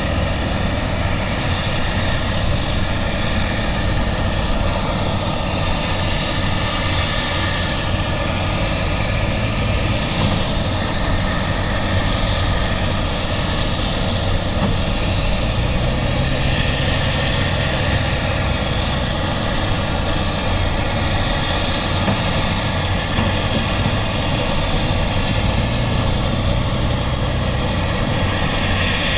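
Jet airliner engines running at a steady, even level, a continuous rushing noise with no rise or fall.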